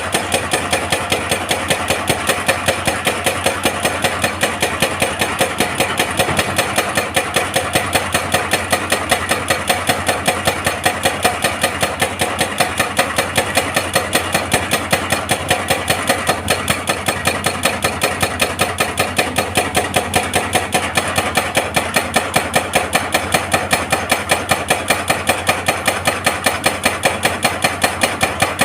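Excavator-mounted hydraulic breaker hammering rock: a steady, rapid train of blows, about four to five a second, over the excavator's running engine.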